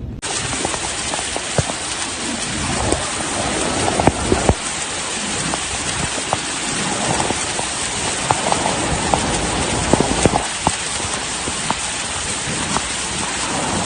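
Heavy rain pouring down: a dense steady hiss with many scattered sharp taps of drops striking nearby surfaces.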